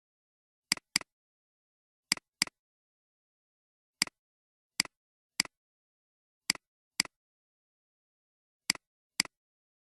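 Computer mouse clicks: eleven sharp clicks over dead silence, several coming as quick pairs like double-clicks and the rest single.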